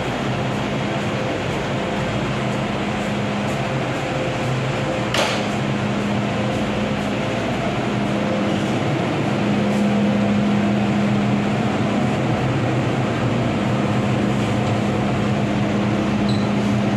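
Steady hum and rumble inside the carriage of an MTR M-Train on the move, with a single sharp click about five seconds in and the noise growing slightly louder around ten seconds in.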